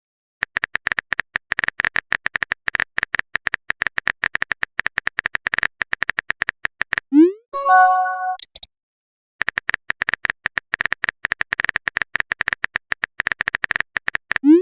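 Rapid, irregular phone-keyboard typing clicks for about seven seconds. Then a short rising tone and a chime, like a message being sent. The typing clicks start again and run for about five seconds, and a rising tone starts right at the end.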